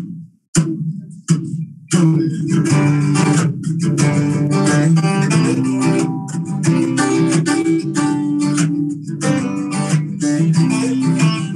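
Live band playing a song's instrumental intro led by strummed acoustic guitar: a couple of lone strums at first, then the full playing comes in about two seconds in and carries on steadily.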